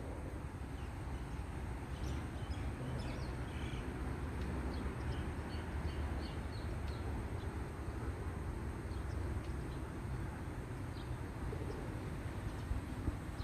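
Birds chirping in short, high calls over a steady low rumble.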